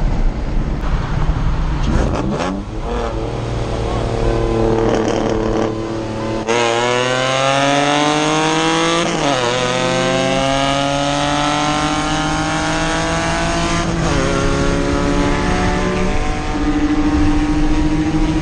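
Supercharged Scion FR-S boxer four-cylinder engine pulling hard at full throttle, heard from inside the cabin. The revs jump about six seconds in and climb steadily in each gear, with upshifts dropping the pitch about nine and fourteen seconds in and another change near the end.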